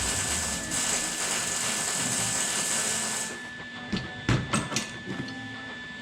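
Hand-tool work on a minibike chain: a steady hiss that cuts off about three seconds in, then a quick handful of metallic clicks and knocks.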